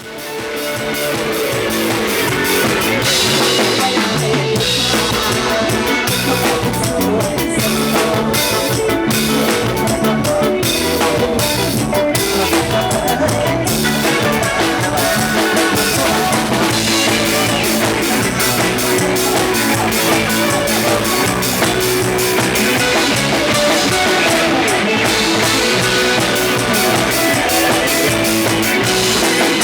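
An Isan band playing: drum kit with snare, rimshots and bass drum keeping a steady beat under electric guitar and electric bass. It fades up from silence at the very start.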